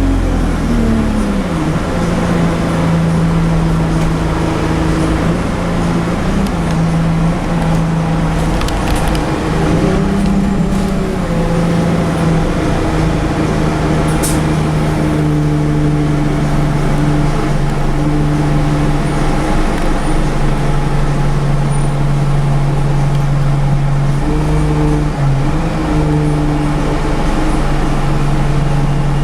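Scania bus engine running steadily under way: its note falls at the start, rises briefly about ten seconds in, then holds level.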